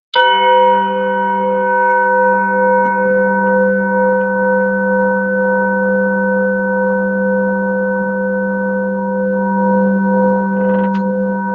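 Singing bowl struck once, then ringing on without fading: a steady low hum with several higher tones above it that waver slowly.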